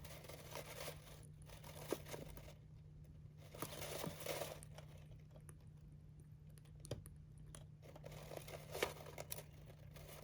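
Dry rice husks rustling and crunching as a small pet bird bathes in a husk-filled sandbox, scratching and flicking them about in irregular, crackly bursts.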